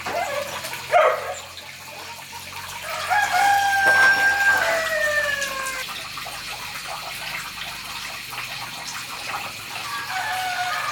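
A rooster crows once, about three seconds in: one long call that holds and then falls away. A brief sharp sound comes about a second in, and fainter bird calls follow near the end.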